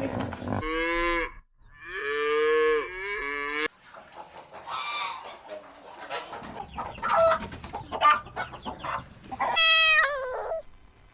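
Cattle mooing twice, two long calls in the first few seconds, followed by chickens clucking in short, irregular calls, with a short call falling in pitch near the end.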